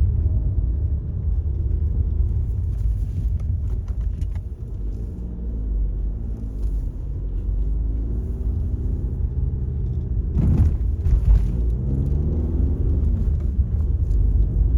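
Car engine and road rumble while driving, heard from inside the car, with the engine note rising and falling several times as the speed changes. A brief louder noise comes about ten seconds in.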